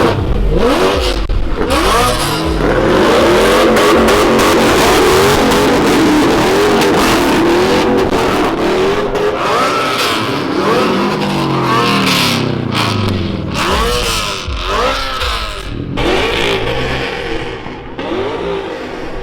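Car engine revved hard through a loud exhaust, held at high revs for several seconds, then blipped in a run of short rises and falls.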